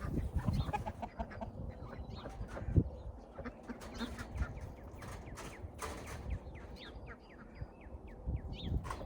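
A flock of chickens clucking and calling, with short, high falling chirps scattered through and a single knock about three seconds in.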